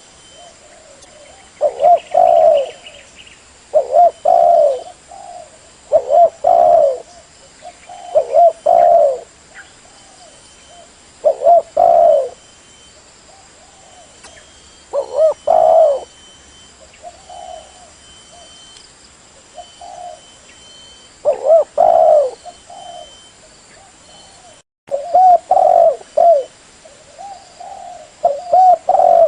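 Spotted dove (tekukur) cooing: a short phrase of coos repeated about every two seconds, the call used to lure other spotted doves.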